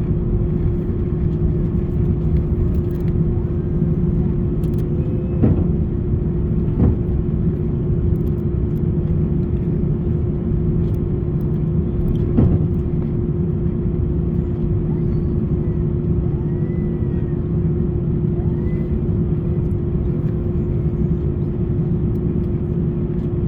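Airbus A330-900neo cabin noise as the airliner taxis in to the gate after landing: a steady low rumble of the engines at idle with a constant hum, and a few faint knocks about five, seven and twelve seconds in.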